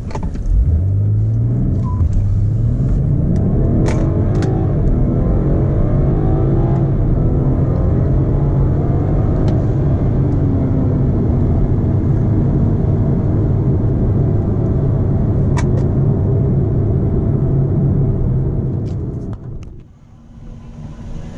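BMW 440i's turbocharged 3.0-litre inline-six pulling up through the revs over the first few seconds, then running steadily under way with road noise. Near the end the engine sound falls away, as when the throttle is lifted, then picks up again.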